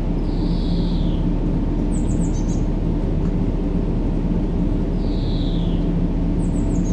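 Deep steady white-noise sleep track, a low rumble with a faint hum, with a bird call laid over it: a falling squeaky note, then a quick run of high chirps, repeating about every four and a half seconds.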